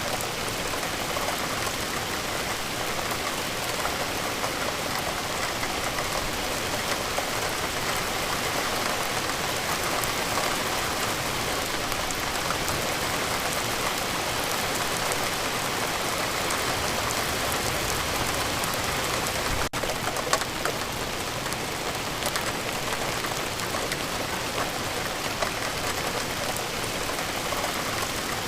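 Steady rain falling, an even hiss of many drops, with a momentary dropout about twenty seconds in.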